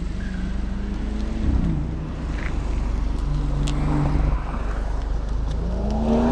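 Mercedes-Benz SLK's engine running at low revs as the car moves off, the pitch stepping down and holding, then revs rising sharply about six seconds in as it accelerates away.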